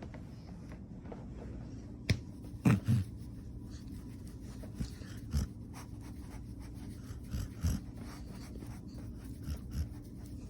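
Dog snoring in its sleep: short, low snores about every two and a half seconds, several coming in quick pairs. A sharp click sounds about two seconds in, over a steady low hum.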